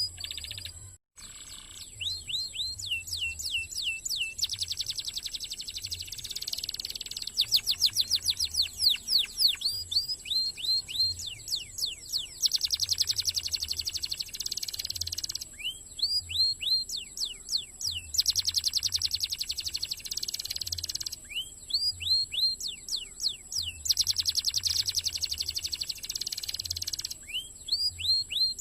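Domestic canary singing fast, dense song: runs of repeated sweeping whistled notes alternating with rapid rolling trills two to three seconds long. The song cuts out briefly about a second in.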